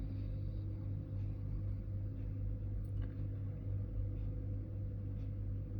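Steady low hum with a faint steady tone above it, unchanging throughout.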